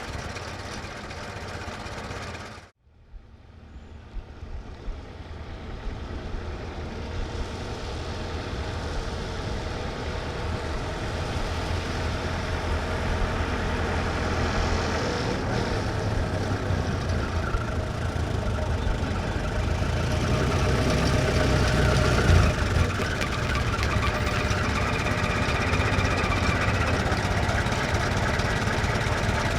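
1924 Ford Model T pickup's four-cylinder engine. An idle cuts off about two and a half seconds in. The truck is then heard approaching, growing steadily louder for about twenty seconds, and then runs on at a fast idle.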